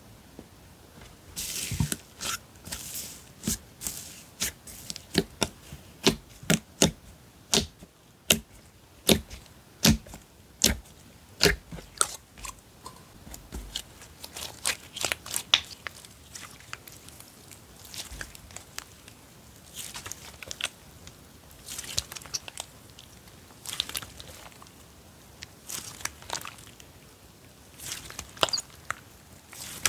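Slime being poked, pressed and stretched by hand, giving a quick run of sharp clicks and pops in the first half, then softer crackly, crinkling stretches.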